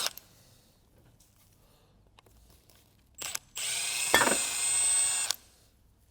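Electric ratchet spinning out a small hex bolt from an oil pump after it was loosened by hand: a short blip about three seconds in, then a run of under two seconds with a steady high whine.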